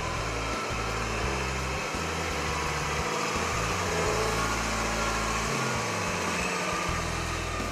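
Diesel engine of a Case IH MX210 tractor running steadily.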